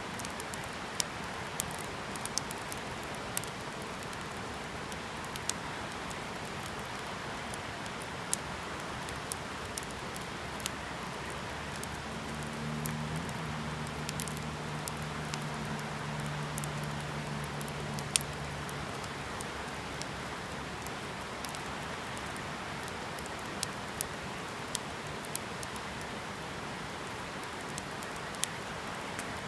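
Wood fire burning in a Petromax Fireball fire pit: a steady hiss with scattered sharp crackles and pops. A low hum rises under it for several seconds in the middle, then fades.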